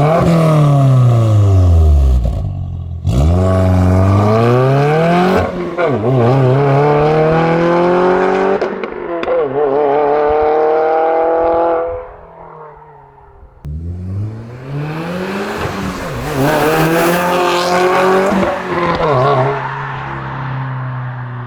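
Subaru WRX VB's turbocharged flat-four running through a de-catted valvetronic exhaust, revving up and dropping back several times as the car accelerates. The pitch climbs steadily over several seconds, falls away, and climbs again, with a brief quieter gap near the middle.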